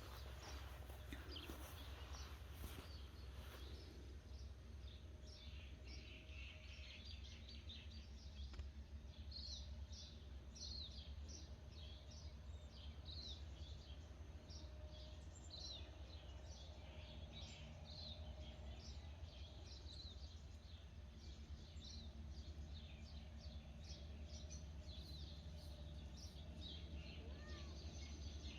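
Faint birdsong: many short, quick chirps repeating throughout, over a low steady rumble.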